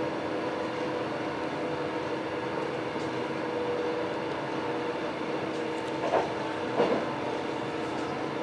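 Passenger train running, heard from inside the carriage: a steady rumble with a constant hum through it, and two brief louder knocks about six and seven seconds in.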